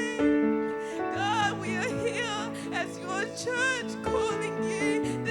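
Church worship band playing soft held keyboard chords, with a bass note coming in about a second in, while a voice sings with vibrato over the music.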